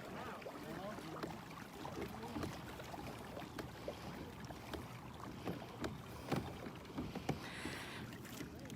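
Paddling on a river: water splashing and dripping from paddle strokes, with scattered small knocks and a louder splash near the end.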